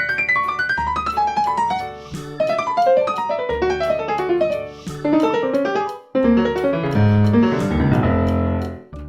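Piano background music: quick descending runs of notes over a bass line, with a brief break about six seconds in.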